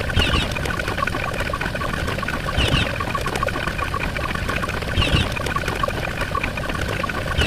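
Looping sound effect: a rapid, even ticking with a short rising chirp and a low thump repeating about every two and a half seconds, three times.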